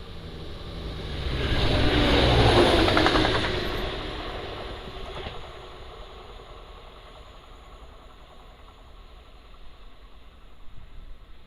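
Train passing through at speed: a rushing rumble swells to a peak about two seconds in, then fades away over the next few seconds.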